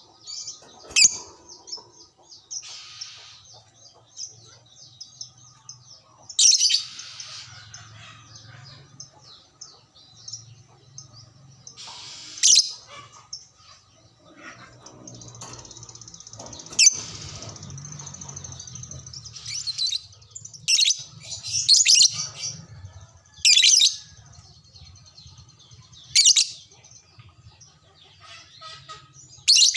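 Lovebird chattering, with sharp shrill calls every few seconds and a longer run of chatter about halfway through.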